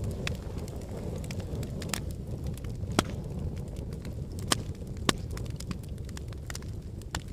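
Wood fire burning in a fireplace: a steady low rumble of flames with irregular crackles and sharp pops from the logs, the loudest about three and five seconds in.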